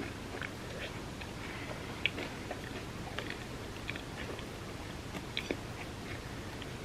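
Close-miked chewing and mouth sounds of a person eating chocolate cake: irregular small wet clicks and smacks over a steady background hiss.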